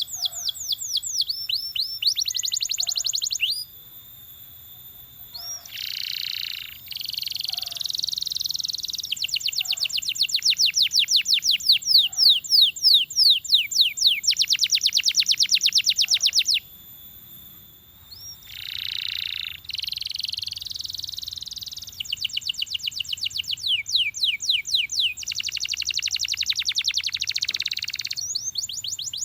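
Belgian canary singing: long phrases of fast, high-pitched repeated trills and rolls, with a pause of about two seconds near the start and another about two-thirds of the way through.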